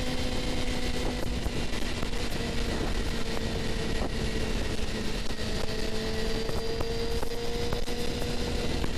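Suzuki GSX-R750's inline-four engine running at a steady high cruise, over 80 mph, under heavy wind rush on a helmet microphone. The engine note dips slightly about halfway through and then climbs again.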